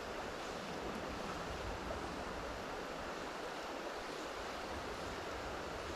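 Steady rushing of river water flowing over rocks, an even wash of noise with no breaks.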